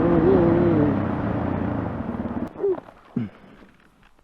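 Motorcycle engine running loudly, then dying away about two and a half seconds in. A wavering voice-like call rises and falls over it in the first second, and two short falling cries come after the engine fades.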